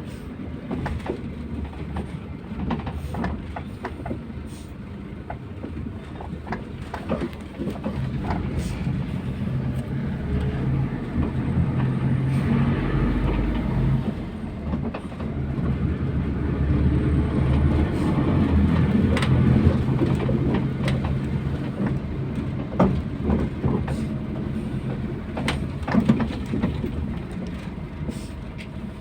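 MAZ 241.030 bus on the move: low engine hum and road rumble, with frequent rattles and knocks from the body. The engine hum grows louder about eight seconds in as the bus pulls harder.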